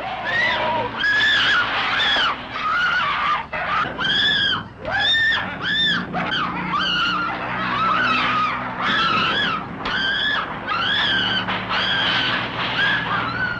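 A woman screaming over and over in short, high shrieks, each rising and falling in pitch, with hardly a pause between them.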